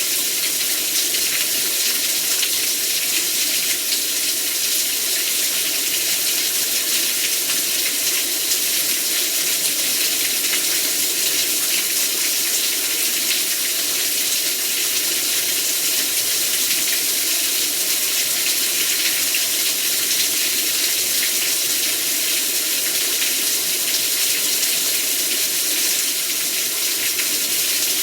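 Heavy rain pouring steadily, a dense, even hiss of many drops with no let-up.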